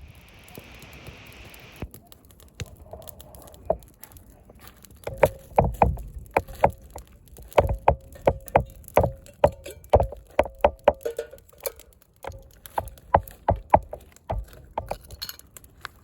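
Two runs of sharp knocks at about three a second, each with a short ring, with a pause between them; a brief hiss comes first.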